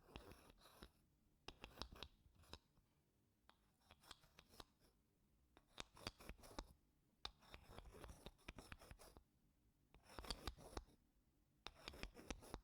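Wooden spoon scraping across wooden blocks: soft, scratchy strokes in short spells of about a second, with brief pauses between them.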